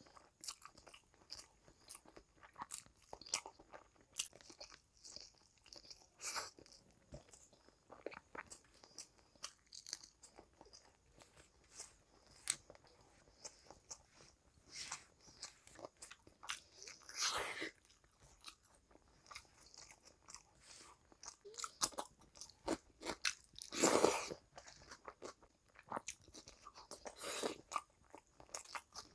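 Close-miked chewing and mouth sounds of rice and curry eaten by hand: a run of short, wet clicks and smacks, with two louder, longer ones past the middle.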